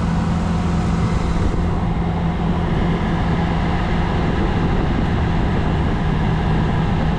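1965 Ford Mustang's 289 V8 idling steadily, heard from inside the cabin, with the air-conditioning blower rushing air.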